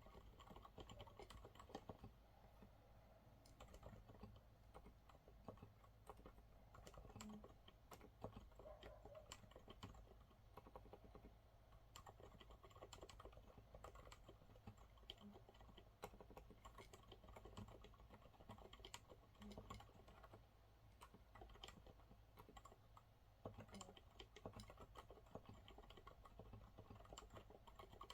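Continuous typing on a Monsgeek MG108W mechanical keyboard with TTC silent brown switches: a quiet, soft clatter of keystrokes at an irregular, steady typing pace.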